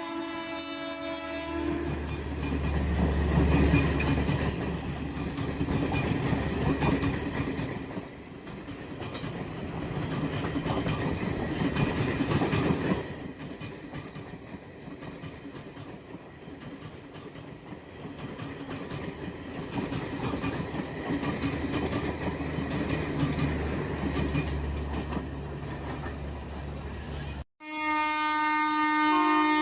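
A train running on the track: rumbling with the clatter of coaches over the rails, swelling and easing. It cuts off suddenly near the end.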